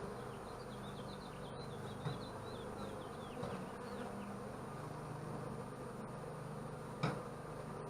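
Honeybees buzzing around an opened hive, a steady low hum, with a light tap about seven seconds in.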